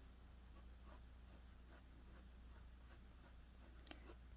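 Faint graphite pencil strokes on paper: light, even shading strokes at about two or three a second.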